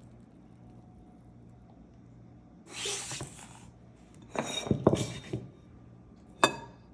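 Kitchen dishes and utensils being handled: a brief scraping noise about three seconds in, a run of knocks and clinks around the middle, and one sharp ringing clink near the end.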